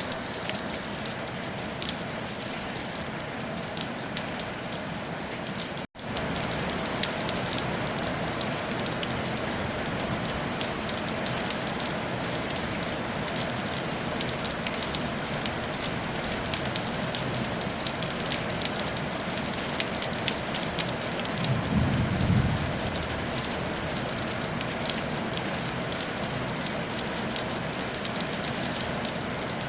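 Steady rain falling on a tile roof, an even patter and hiss. It cuts out for an instant about six seconds in and resumes slightly fuller, and a brief low rumble comes about two-thirds of the way through.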